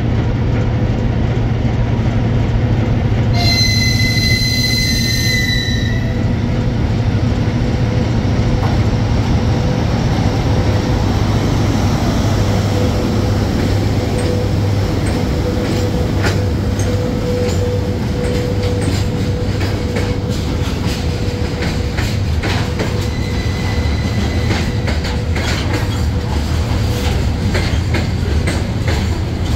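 VL80S electric freight locomotive hauling a freight train, with a steady loud low rumble throughout. About three seconds in, the locomotive sounds a high whistle blast lasting about two and a half seconds. Later a thin steady whine sits over the rumble, and wheels clack over the rail joints in the second half.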